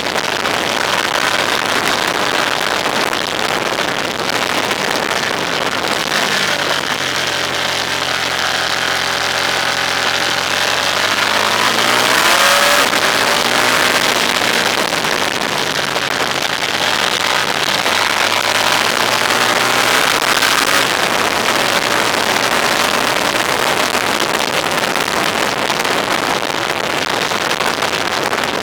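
Steady wind and road rush from a moving vehicle. About six seconds in, an engine note rises in pitch for several seconds, then bends and fades at around the halfway point.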